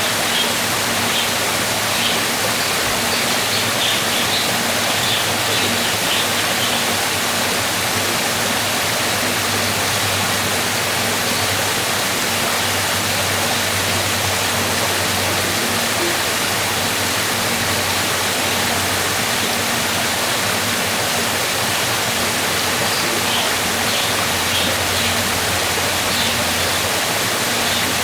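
Waterfall: water rushing in a steady, unbroken roar of noise. Faint high chirps come and go in the first few seconds and again near the end.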